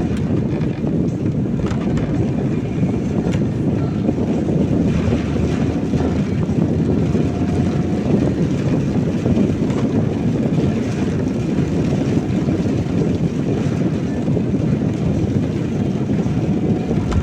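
Steady rumbling noise heard from inside a car driving in heavy rain: tyres on a wet road, rain on the car and wind.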